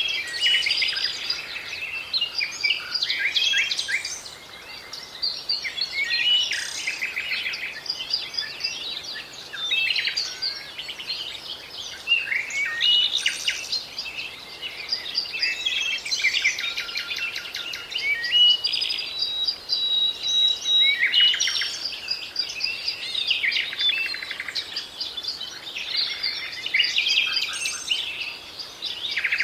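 Several songbirds singing and calling at once, a dense chorus of chirps, rapid trills and short whistles that never pauses, over a faint steady background hiss.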